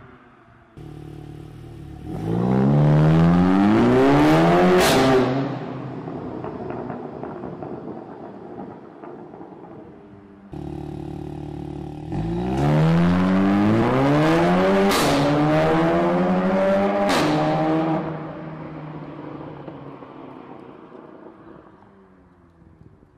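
Volkswagen Golf 7 R's turbocharged four-cylinder engine through a BULL-X stainless steel sport exhaust, accelerating hard twice with the pitch climbing. Sharp cracks come at the gearshifts, about five seconds in and twice more later, and each run eases off and fades.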